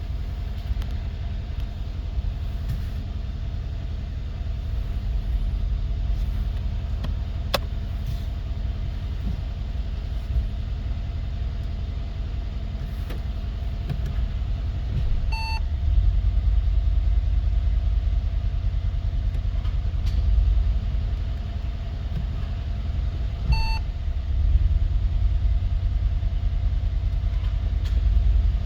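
Steady low road rumble inside a Mercedes-AMG GLE 63 while driving, getting somewhat louder about halfway through. Two short electronic beeps sound about eight seconds apart, the first just past the middle.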